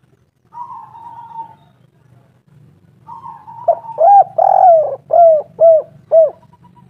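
Spotted dove cooing: a run of about six arched coos, one long note in the middle followed by three short ones about half a second apart. A fainter, wavering call comes first.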